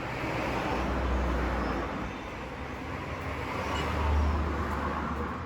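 Car running with a steady wash of road noise and a deep low rumble that swells twice, about a second in and about four seconds in.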